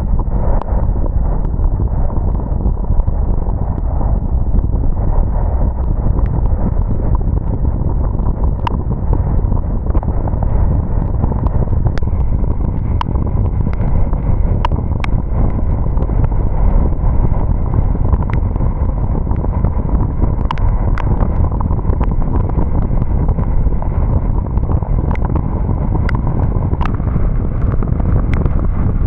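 A car driving in the rain: a steady low rumble of road, tyre and wind noise, with scattered sharp ticks, more frequent in the second half, from raindrops striking.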